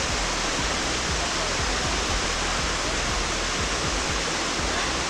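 Steady rush of water from the Kuzalan waterfall and its stream, an even, unbroken noise of falling and running water.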